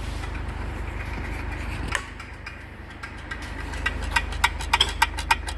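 Steady low hum with one sharp metallic click about two seconds in, then a quick run of metallic clicks, about six a second, from a little before four seconds in.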